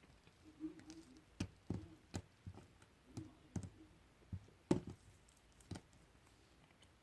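Slime being squeezed and pressed by hand, giving soft squelches and about a dozen irregular sticky clicks and pops.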